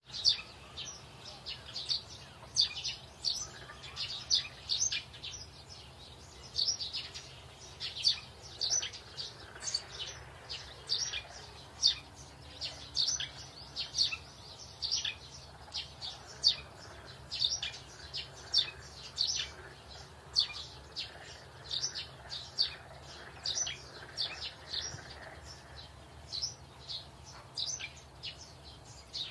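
Small birds chirping: many short, high calls in irregular runs, over a faint steady low hum.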